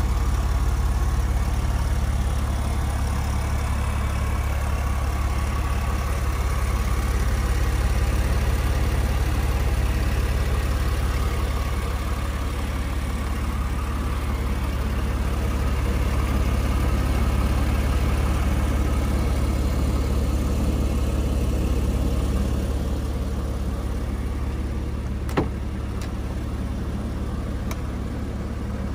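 Porsche 996 Carrera's flat-six engine idling steadily with an even low hum. A single sharp click comes near the end.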